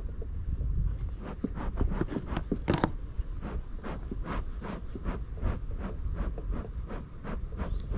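Repeated irregular scraping and clicking from hands working equipment, a few louder knocks about two and a half to three seconds in, over a steady low rumble.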